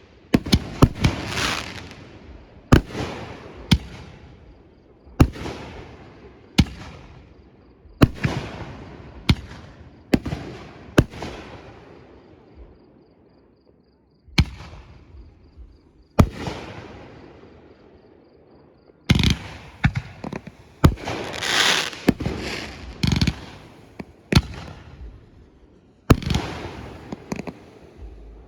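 Fireworks display: aerial fireworks bursting one after another, each sharp bang trailing off into a long fading tail. There is a quieter gap around the middle, then a quick cluster of bangs.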